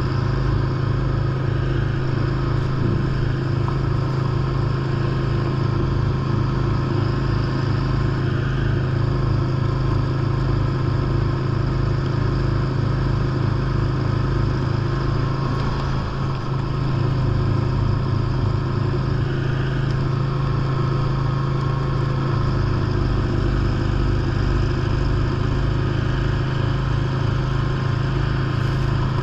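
John Deere lawn tractor engine running steadily while driving a 44-inch snowblower attachment through snow: a constant low hum over a fast low pulsing, with a brief dip about sixteen seconds in.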